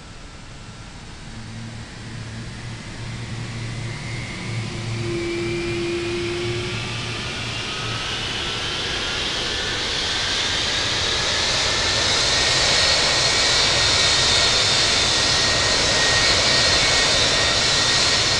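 Boeing 757's Rolls-Royce RB211-535 turbofan engine starting up, its whine rising in pitch and growing steadily louder as the engine spools up toward idle.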